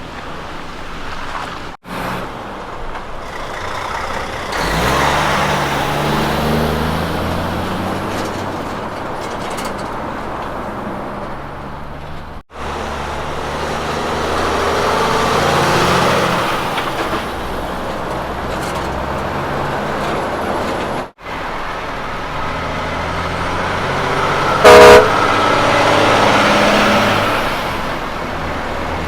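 Heavy diesel road trains driving past with their engines pulling, heard in several short clips cut together, each swelling as the truck goes by. Near the end a truck gives one short, very loud horn blast.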